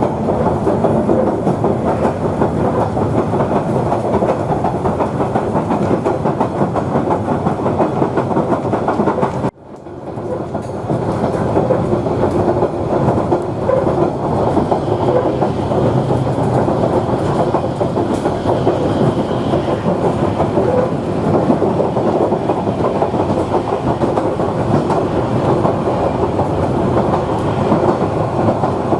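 Queensland Rail 2000 class railcar running along the track, its wheels clattering steadily over the rails. The sound drops out suddenly about nine seconds in and fades back up within a second or so.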